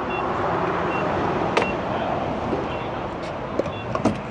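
Steady vehicle and traffic noise, broken by a few short high beeps and a couple of sharp clicks.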